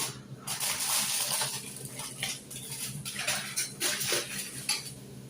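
Handling noises: irregular rustling, hissing and light knocks, like containers being moved about.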